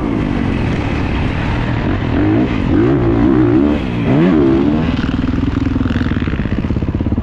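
Dirt bike engine revving up and down repeatedly, then settling about five seconds in to a steady, fast-pulsing low-rpm run.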